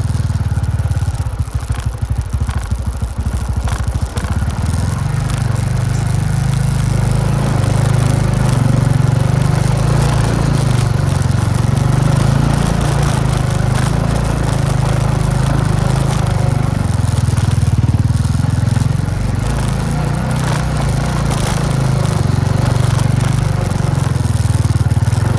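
Motorbike engine running while riding, uneven for the first few seconds and then steady.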